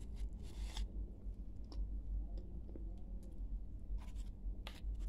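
A person chewing a mouthful of crunchy clay: scattered crisp crunches and clicks, with a short scraping rasp about half a second in, over a steady low hum.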